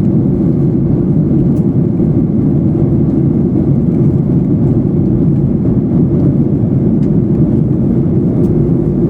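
Steady, even drone of engines and rushing air heard inside the passenger cabin of a Boeing 737-800 in flight.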